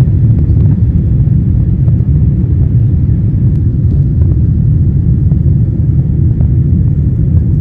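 Jet airliner cabin noise during the climb after takeoff: a loud, steady low rumble of engines and airflow.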